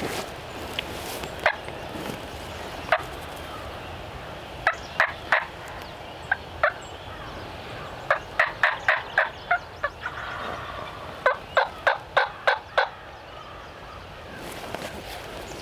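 Wild turkey calling: a few single short sharp notes, then runs of several notes at about four a second, the longest runs about halfway and near the end.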